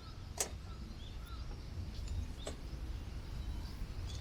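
Strong wind buffeting the microphone as a steady low rumble, with two sharp clicks, about half a second and two and a half seconds in, and a few faint bird chirps.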